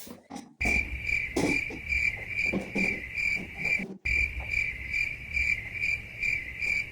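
Cricket chirping steadily, a high pulsing trill of about three pulses a second, which breaks off for a moment about four seconds in.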